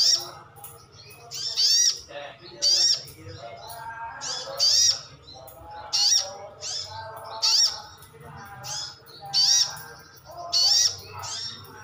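Wild sunbird calling over and over: loud, sharp, high-pitched notes about once a second, with softer, lower warbling between them.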